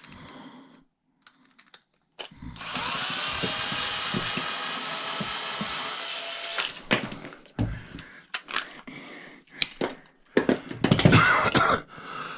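Power drill spinning up with a rising whine and running steadily for about four seconds, removing one more fastener. After it come scattered clicks and knocks of small metal parts being handled.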